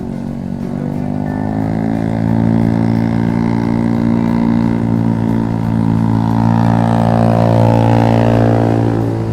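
Motorcycle engine running at steady revs under load, a steady drone that grows louder over the first couple of seconds and eases off near the end.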